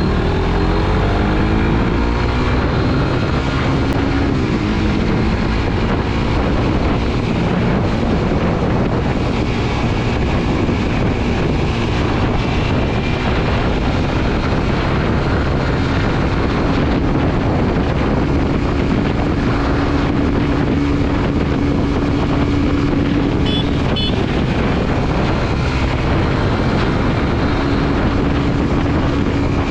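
Suzuki GSX-R150's single-cylinder engine running on the move, its revs falling in the first couple of seconds and then holding fairly steady, with wind rushing over the microphone.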